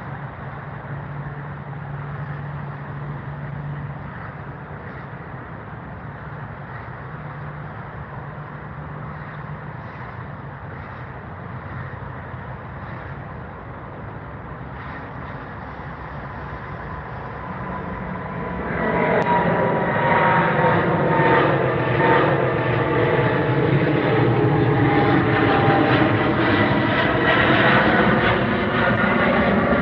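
Twin-engine jet airliner taking off: a low steady rumble gives way, about two-thirds of the way through, to a much louder jet engine roar with whining tones that glide slightly in pitch and hold to the end.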